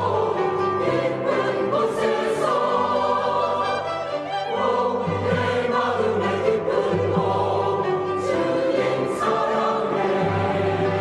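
Church choir singing a sacred anthem, many voices holding sustained notes over steady low accompaniment.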